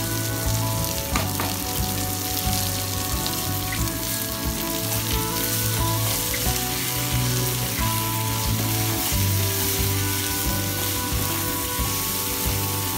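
Taro pieces and peanuts sizzling steadily in hot oil in a nonstick pan as they are stir-fried with a wooden spatula, with a couple of light knocks from the spatula about a second in.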